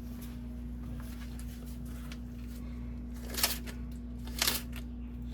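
A steady low hum with a constant tone, and two short noisy scuffs about three and a half and four and a half seconds in.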